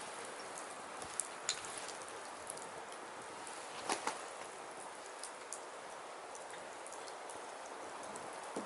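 Firewood burning: a steady hiss with scattered crackles and pops, the loudest a quick pair about four seconds in.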